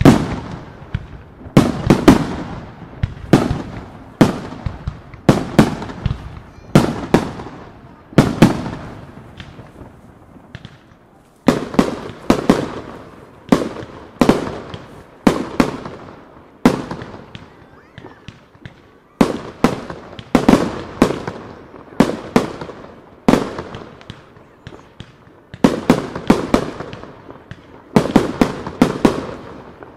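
Aerial firework shells bursting in quick volleys, each bang trailing off in a rumbling echo, with short lulls about ten seconds in and again near the middle.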